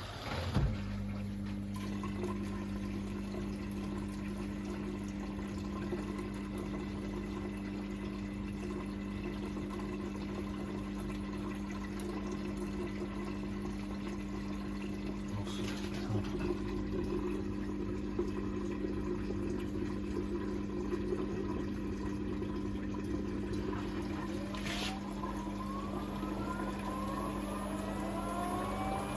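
Hoover H-Wash 500 washing machine running its service-mode check-up test: a pump hums steadily with water moving through the machine, with a couple of faint clicks. Near the end a rising whine as the drum motor starts to speed up.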